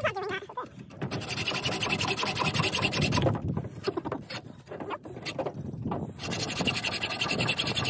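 A saw blade cutting through a part, a fast, rasping stroke sound in two spells that eases off in the middle.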